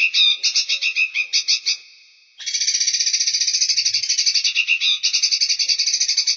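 A songbird singing rapid, chattering trills. One uneven run ends about two seconds in, and after a short pause a long, fast, even trill follows.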